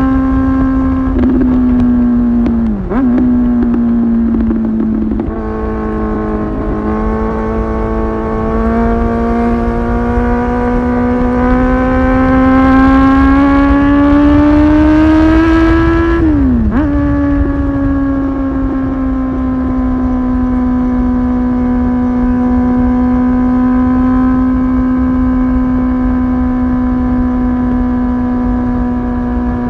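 Kawasaki ZX-10R's 998 cc inline-four through an aftermarket Tyrants titanium muffler, heard onboard while riding. It shifts quickly a couple of times early on, then pulls through a gear with the pitch rising steadily. Near the middle the pitch drops suddenly at an upshift, and it cruises at a steady pitch after that, with wind rumble underneath.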